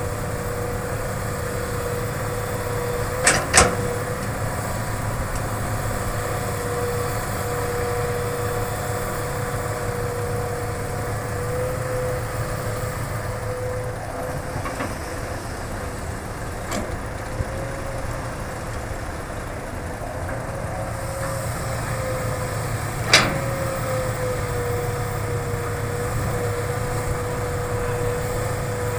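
Hitachi hydraulic excavator's diesel engine running steadily with a constant whine over a low rumble, broken by a pair of sharp knocks about three seconds in and another single knock about 23 seconds in.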